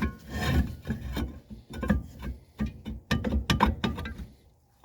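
Cast-iron brake drum being handled and slid onto the rear hub over the brake shoes: irregular metal clunks and scraping, dying away shortly before the end.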